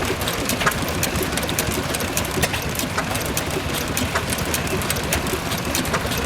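Richard Hornsby stationary petrol engine running steadily, with a constant noise and a rapid run of sharp mechanical clicks.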